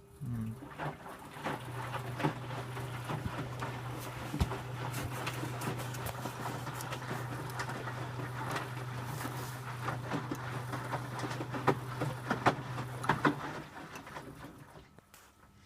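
Electrolux W455H commercial washing machine tumbling its load in the wash: the drum motor starts with a short rising whine, then hums steadily under the irregular splashing and knocking of wet laundry dropping in the drum, and stops near the end. A fast tumble.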